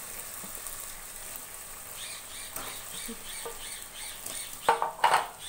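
Birds chirping repeatedly in the background while fried cabbage balls are dropped into a steel kadai of sauce, with a couple of loud, sharp knocks near the end.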